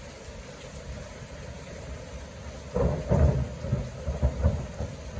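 A close thunderclap about three seconds in: a loud, low rolling rumble in several surges lasting nearly two seconds, over steady background noise.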